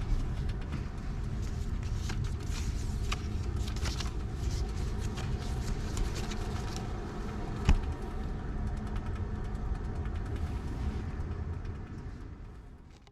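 Car driving, with a steady low rumble of road and running noise and one sharp knock about eight seconds in; the sound fades out near the end.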